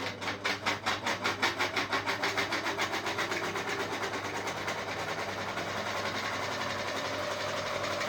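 Ceiling fan running with a rhythmic ticking that speeds up from about six a second until it blurs into a steady rattle, over a constant low hum.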